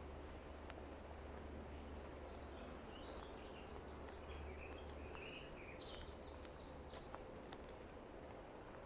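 Faint forest birdsong: scattered high chirps and, in the middle, a quick run of repeated high notes, over a low steady background hum.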